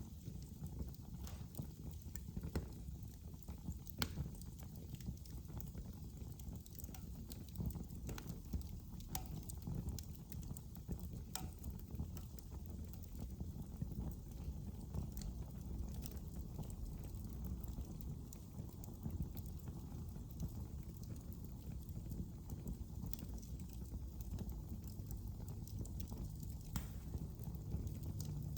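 Wood fire burning in a fireplace: a low steady rumble of flames with irregular sharp crackles and pops from the burning wood.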